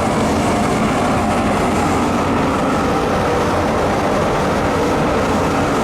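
Biomass sawdust burner firing a steam boiler, running with a steady, loud mechanical roar of fan and flame that holds even throughout.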